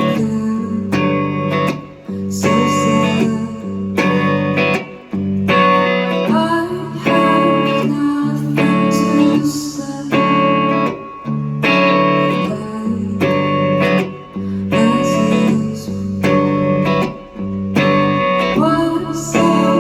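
Guitar-led band music played live: sustained chords in a repeating progression, with short dips in loudness every few seconds as the chords change.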